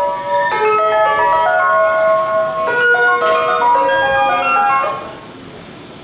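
Electronic chime melody played over a Japanese railway station's platform speakers, a run of bright bell-like notes that ends about five seconds in.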